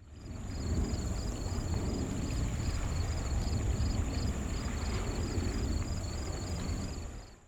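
Distant jet aircraft engine rumble mixed with wind, while insects chirp in a steady high rhythm about three times a second over a constant high buzz.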